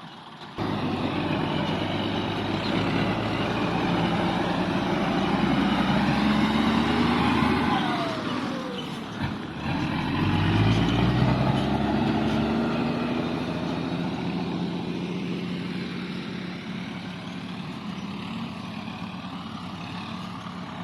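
Ten-wheel truck's diesel engine pulling away under load: the pitch climbs for several seconds, drops briefly about nine seconds in as at a gear change, then climbs again and gradually eases.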